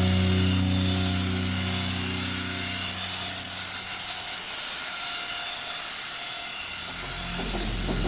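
Radio-controlled helicopter in flight: a steady high-pitched whine and buzz from its motor and spinning rotor blades. A low hum fades away over the first few seconds.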